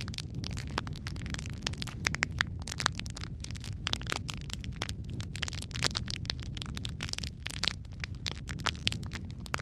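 Wood fire crackling, with dense, irregular pops and snaps over a low, steady rumble of flame.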